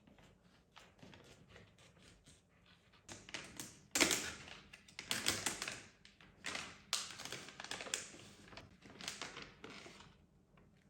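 A run of sharp taps, clicks and knocks, like objects being handled and set down, growing busier about three seconds in with the loudest knock soon after, then thinning out near the end.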